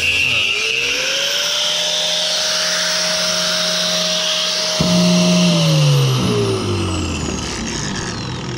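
Electric power tool with a blade cutting scrap copper: the motor spins up about half a second in, runs steadily with a hiss of cutting, then its pitch drops from about five and a half seconds as it spins down.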